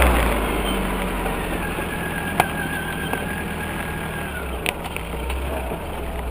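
UAZ off-road vehicle's engine running at low revs, easing off just at the start and then holding steady, with a couple of short sharp knocks in the middle.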